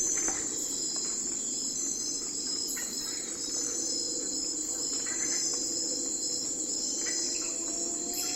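Night insect chorus: crickets trilling continuously in a high, pulsing band, over a steady lower hum of forest ambience.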